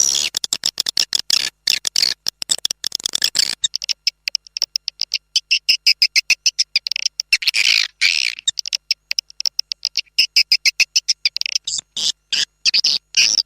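Swiftlet call recording used as a lure call for a swiftlet house: a fast, dense twittering chatter of short high chirps with brief gaps. About four seconds in a lower raspy layer drops away, leaving only the high chirps.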